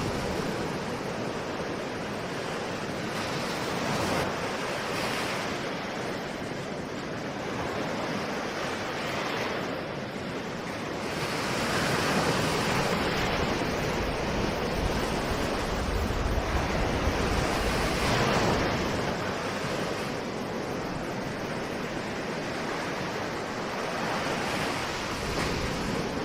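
Ocean surf: waves washing in and breaking in a continuous rush that swells and eases every few seconds, loudest about halfway through.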